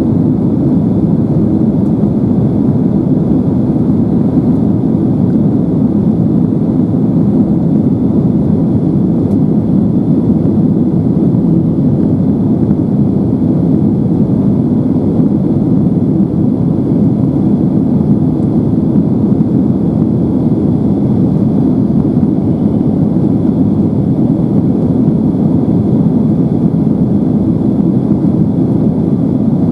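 Steady low rumble of engine and airflow noise inside the cabin of a Boeing 767-300ER airliner, with a faint steady high whine and no change in level.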